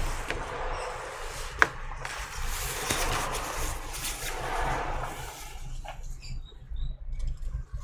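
Rustling and handling noise as small items are moved about, with one sharp click about one and a half seconds in.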